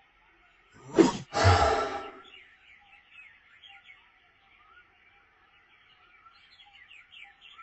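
A brief, loud vocal sound about a second in, then faint, rapid bird chirping.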